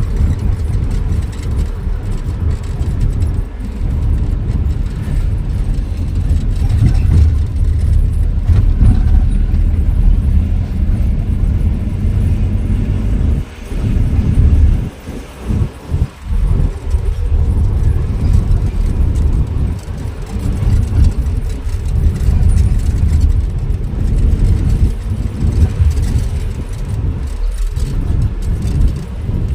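Low, uneven rumble of a vehicle driving on the road, with a few brief drops in level about halfway through.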